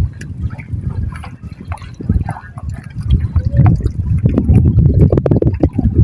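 Seawater sloshing and gurgling, with an irregular low rumble that grows louder about halfway through.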